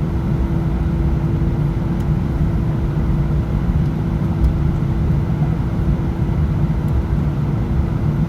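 Airbus A319 jet engines running, heard inside the passenger cabin as a steady low rumble with a constant hum over it, the level holding even throughout.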